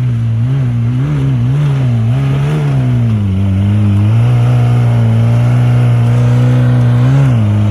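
Off-road 4x4 engine revving hard under load: the revs rise and fall unevenly for a few seconds, then are held high and steady, with a short dip near the end.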